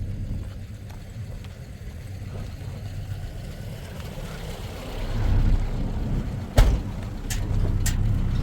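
A motor vehicle's engine running steadily with a low hum, growing louder about five seconds in. A sharp knock comes near the end, followed by a couple of lighter clicks.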